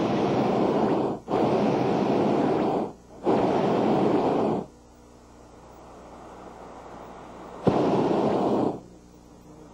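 Hot air balloon's propane burner firing in three long blasts with brief breaks, then stopping for a few seconds before one short blast near the end, heating the envelope to climb over an obstruction.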